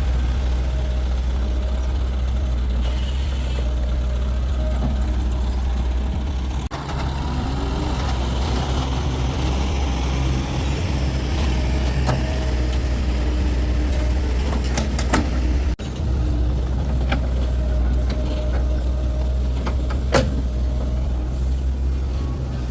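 A heavy vehicle engine running steadily, a constant low drone, with a few sharp clicks and knocks in the second half.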